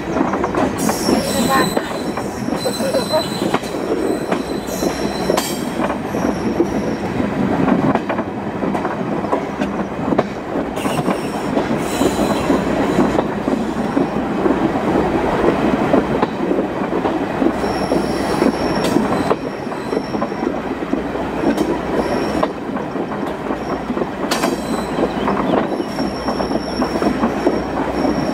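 Heritage railway train running on the track: a steady rolling rumble with occasional knocks from the rails, and spells of high-pitched wheel squeal near the start, a little past the middle and near the end.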